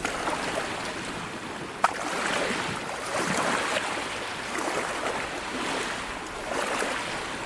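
Sea water rushing and splashing in surges that rise and fall every second or so, with one sharp click about two seconds in.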